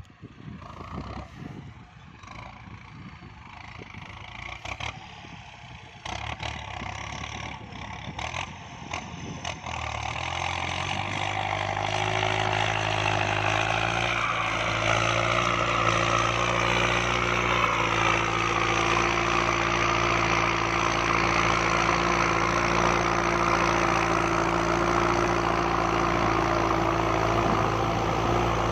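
Kubota MU5702 tractor's diesel engine running as it ploughs, with a few knocks and rattles in the first ten seconds; about ten seconds in the engine grows louder and then runs steadily.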